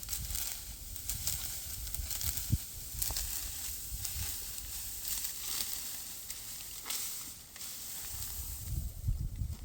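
Dry rustling and crackling with many small clicks, over a low rumble of wind on the microphone that is strongest at the start and again near the end.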